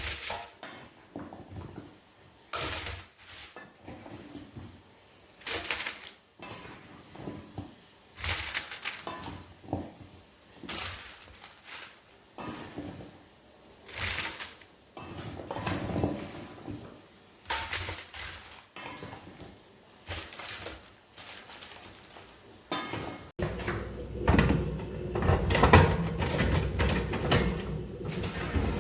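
Kitchen utensils knocking and scraping against pots and bowls in irregular strokes every second or two. About 23 seconds in, this gives way to a denser, continuous run of clatter.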